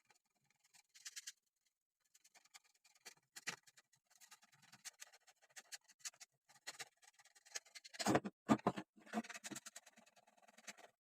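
Irregular small clicks, taps and scrapes of tools and parts being handled during bench repair of a vintage transistor radio, with a louder cluster of knocks about eight seconds in.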